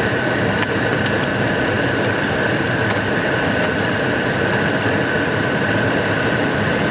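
2006 Dodge Dakota's 3.7 V6 idling steadily with a slight misfire on cylinders 4 and 5, the truck shaking a little. A steady high-pitched whine runs over the engine sound.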